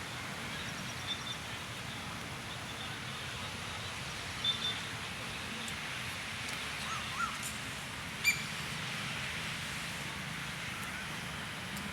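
Outdoor garden ambience: a steady background hiss with a few short, high bird chirps scattered through it and one sharper call about eight seconds in.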